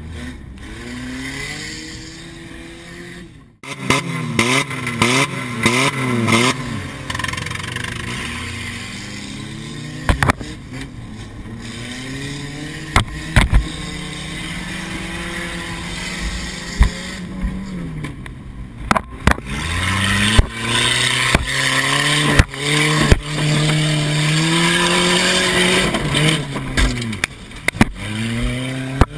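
Car engine heard from inside the cabin, revving up and falling back again and again as the car is driven hard around a dirt track, with the revs fluttering rapidly for a couple of seconds about four seconds in. Sharp knocks and bangs break in repeatedly over the engine.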